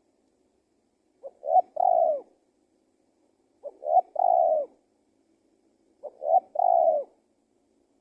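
Spotted dove (tekukur) cooing: three calls about two seconds apart, each a couple of short notes leading into a longer, falling coo.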